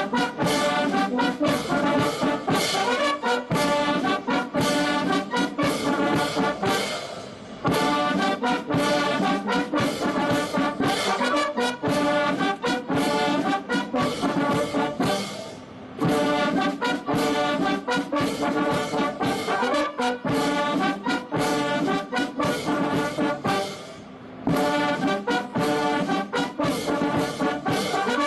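Military brass band playing ceremonial music for an honour guard, in phrases about eight seconds long with a short break between each.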